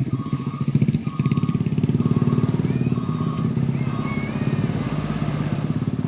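Heavy truck engine running steadily with a fast pulsing beat, its pitch shifting a little, while a short high beep repeats about once a second.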